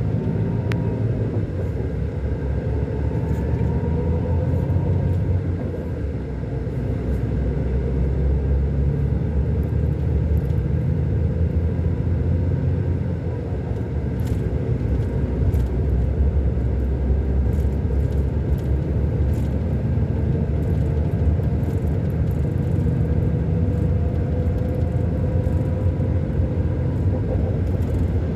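Scania K-400 six-cylinder diesel engine of a double-decker coach running steadily under way, a deep rumble that dips briefly in level about 6 and 13 seconds in.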